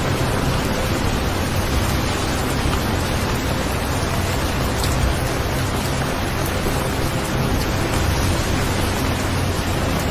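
Steady rainfall: a dense, even hiss of rain with a few separate drops ticking through it.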